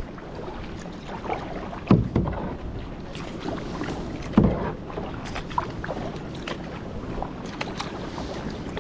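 Kayak paddle dipping and splashing in the water. There are two louder splashes, about two seconds in and about four and a half seconds in, with drips and small splashes between them.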